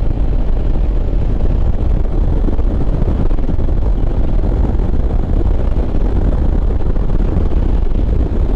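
Wind rushing over a helmet-mounted microphone with the visor open, over the running single-cylinder engine of a Lifan KPM 200 motorcycle under way.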